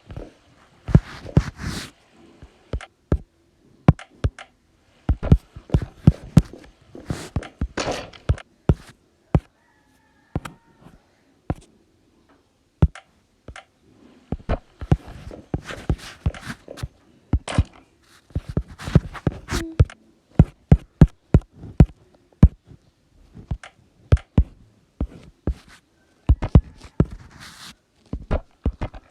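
Irregular run of sharp knocks, taps and thuds, clustered in bursts with a couple of quieter gaps, as of hard objects being handled and knocked together.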